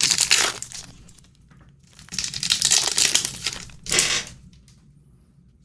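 Trading card pack wrapper crinkling as it is handled and torn open, in three bursts.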